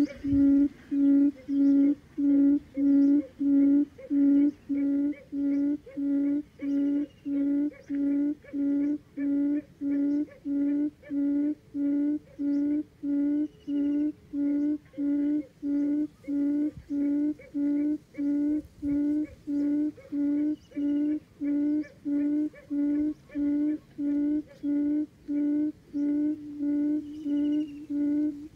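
Buttonquail's booming call: a long, even series of low hooting notes, about three every two seconds, with faint chirps of other birds now and then.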